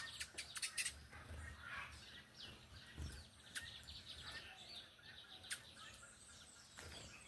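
Many small wild birds chirping and calling at once, a busy overlapping mix of short high chirps, with a few sharp clicks, the loudest of them in the first second.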